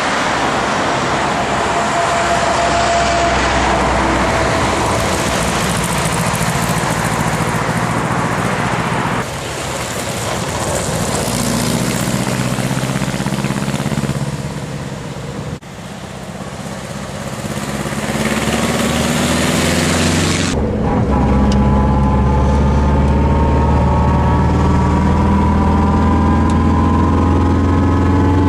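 Tatra 600 Tatraplan's air-cooled four-cylinder boxer engine running, in several cut-together clips. In the last part, from about two-thirds of the way in, its pitch rises gently as it pulls.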